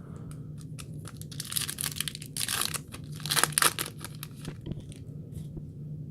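A foil trading-card pack wrapper being torn open and crinkled by hand, in several sharp crackling bursts that are loudest about three and a half seconds in.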